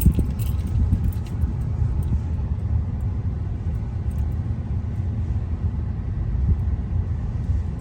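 Steady low rumble of a moving car, heard from inside the cabin: road and engine noise.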